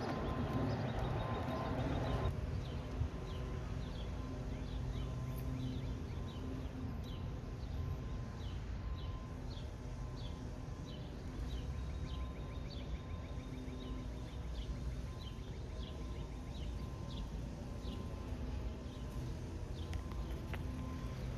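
A bird chirping over and over in short falling notes, over a steady low hum. A louder rushing noise stops about two seconds in.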